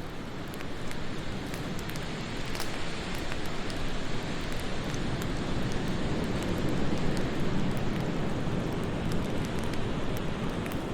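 Steady wind rushing, swelling louder in the second half, over the scattered small crackles and pops of a wood fire, with one sharper pop early on.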